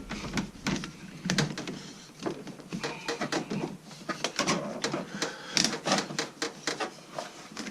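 An air filter being worked onto a turbo intake pipe by hand: irregular clicks, taps and scraping of the parts being handled and fitted.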